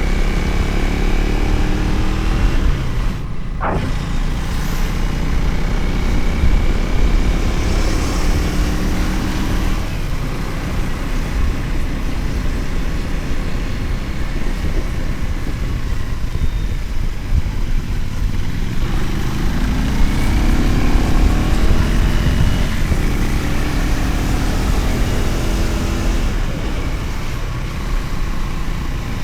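Motorcycle engine running on the move, its pitch rising and falling with throttle and gear changes, with heavy wind and road noise over the microphone. A brief sharp sound about three and a half seconds in.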